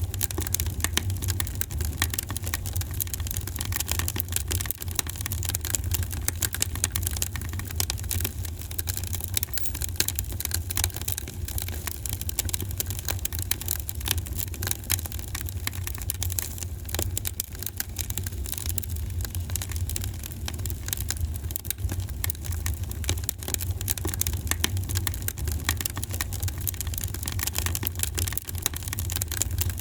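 Wood fire in a fireplace crackling, with many quick pops and snaps over a steady low rumble of the flames.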